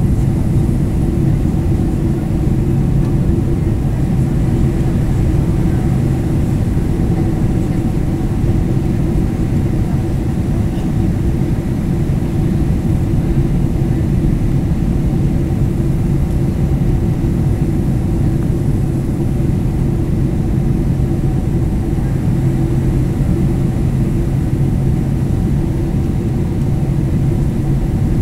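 Boeing 767-300ER jet engines and airflow heard inside the passenger cabin: a steady, loud rumble with a low, even hum.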